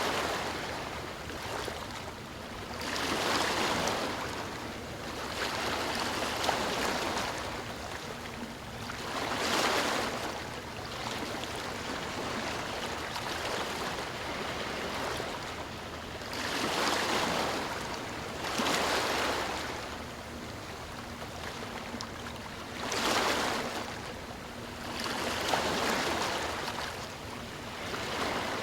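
Ocean waves breaking and washing onto the shore, a surge of surf every few seconds over a steady background wash of water.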